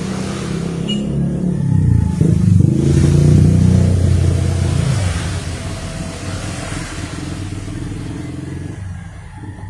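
A motor vehicle engine passing by, getting louder with some rise and fall in pitch, loudest about three to four seconds in, then fading away.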